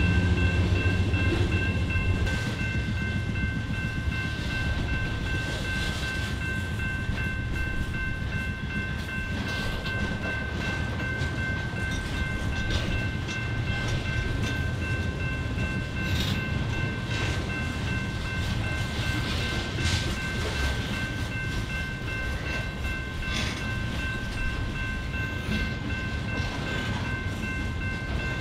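Train cars rolling past: a steady rumble with scattered clicks and clanks from the wheels on the rails. A steady high-pitched ringing sits over the whole pass, and a louder low engine rumble fades out over the first couple of seconds.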